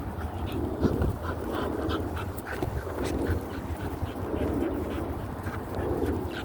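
A dog panting and whining, with wind rumbling on the microphone underneath.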